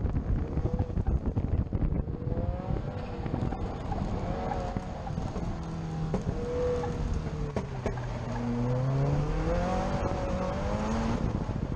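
Car engine driven hard on an autocross run, its pitch rising and falling with acceleration and lifting off, climbing steadily for a few seconds near the end, with wind buffeting the microphone.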